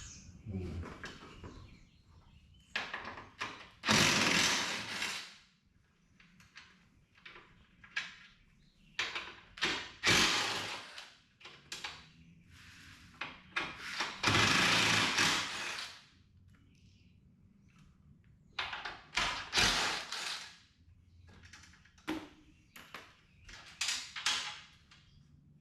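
Hands-on work on a side-by-side's door panel: scattered knocks, clicks and handling noises, with longer scraping, rustling stretches about 4, 10 and 15 seconds in.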